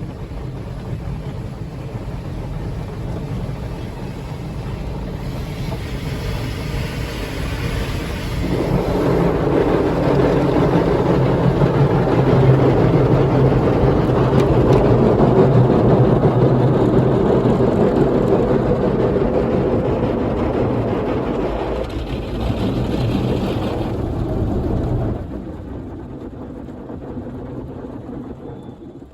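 Soft-cloth brushes of a Belanger FreeStyler automatic car wash scrubbing over a car, with water spraying. The noise swells about eight seconds in and drops off sharply around twenty-five seconds, as the brushes move away.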